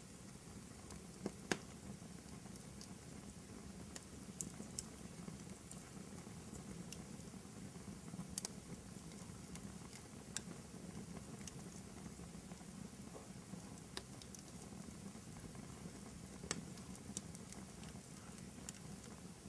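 Wood fire burning in a fireplace: a steady low rustle with scattered sharp crackles and pops, the loudest about a second and a half in.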